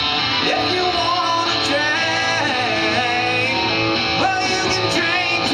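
Live rock music: a male singer holding and sliding long notes over strummed guitar accompaniment.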